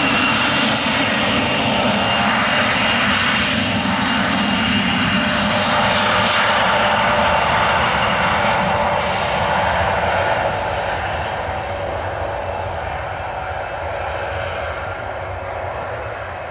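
Twin rear-mounted GE CF34 turbofans of a Bombardier CRJ-200 regional jet passing close by: a loud jet roar with a thin high whine. It holds steady for about ten seconds, then slowly fades as the aircraft moves away.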